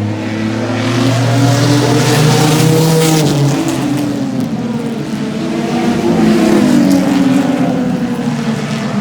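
Several race cars' engines running hard on the track, their pitches rising and falling as the cars accelerate and pass. One steady low engine note stands out for the first few seconds, then fades.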